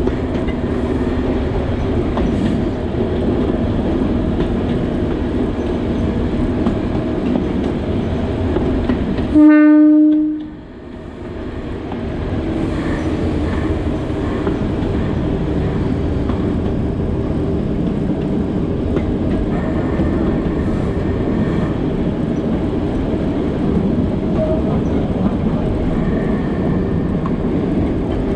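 Narrow-gauge forest railway train running steadily along the track. About ten seconds in, the train's horn sounds one short blast.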